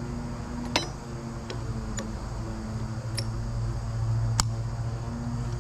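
About five sharp metallic clinks, spaced irregularly, of hand tools knocking against steel winch parts, the loudest a little past the middle. A steady low hum runs underneath.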